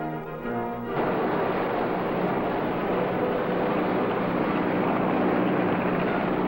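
Orchestral music cuts off about a second in, replaced by a steady motor drone with a low hum.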